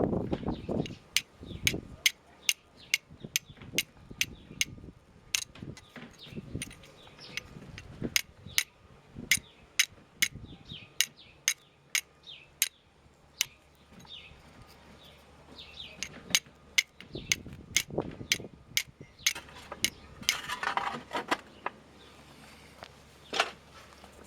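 Flint and steel being struck over and over to throw sparks: sharp metallic clicks about twice a second, with a short pause partway through and a brief scraping near the end.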